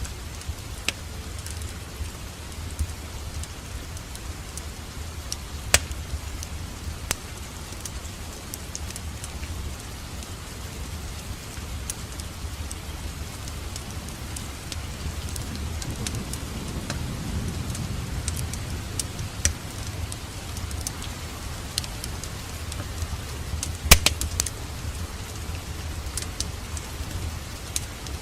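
Wood fire crackling in a fireplace: a steady low flame sound with scattered pops and snaps, the sharpest snap about 24 seconds in, and a brief swell of the flames a little past the middle.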